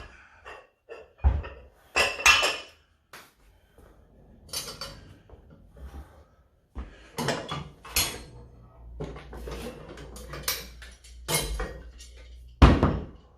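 Iron weight plates clanking and knocking together as they are handled for a loaded rolling grip handle, about a dozen separate metallic strikes, with a heavier thud near the end.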